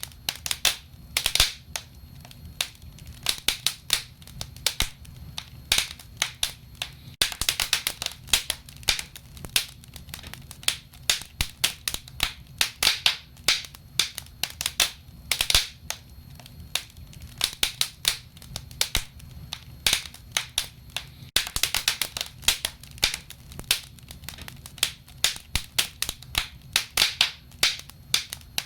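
Firewood burning with steady crackling: frequent sharp, irregular pops and snaps over a low, steady rumble.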